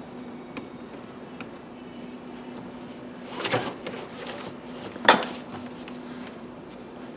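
Car interior parts being handled during repair work: a short clattering rattle about three and a half seconds in, then a sharp knock about a second and a half later, over a faint steady hum.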